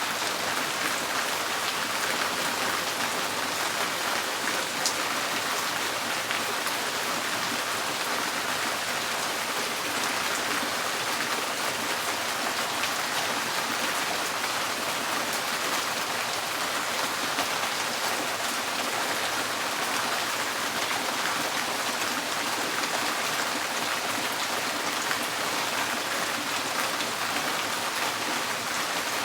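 Steady rain drumming on a tin porch roof, a dense even patter with scattered sharper drop ticks.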